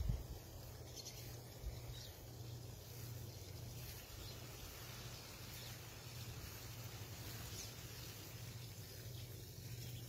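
Faint garden ambience with a few short, distant bird chirps over a steady low hum, and a couple of soft thumps near the start.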